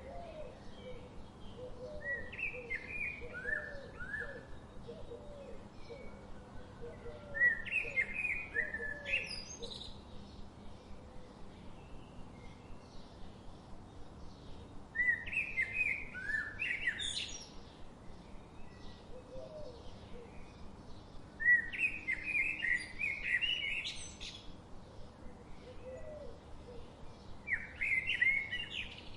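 Wild birds singing: a bird repeats a short song phrase five times, several seconds apart, each phrase ending in quick high upward notes. A softer, lower chirping repeats through the first third.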